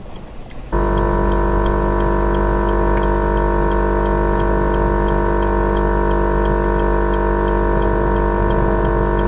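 A steady electronic drone of several held tones starts abruptly just under a second in, with a faint regular ticking over it.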